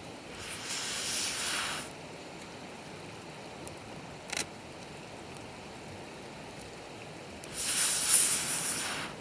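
Campfire burning, with a steady low hiss, two bursts of hissing about a second and a half long (the second louder, near the end) and a single sharp pop from the fire midway.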